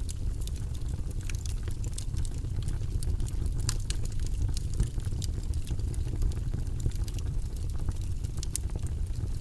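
Wood fire burning in a fireplace: a steady low rumble of flame with frequent sharp crackles and pops from the burning logs.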